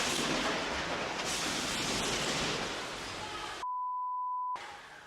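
Steady rushing noise that fades after about three seconds, then a single electronic beep, one steady tone lasting just under a second with dead silence around it, and faint hiss after.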